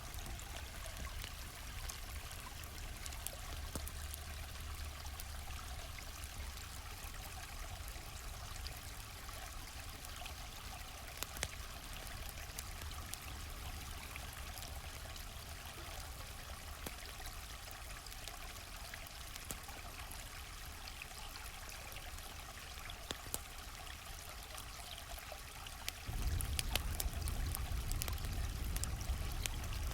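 A gently flowing stream runs steadily, with scattered sharp crackles and pops from a campfire. Underneath is a low rumble that gets suddenly louder about 26 seconds in.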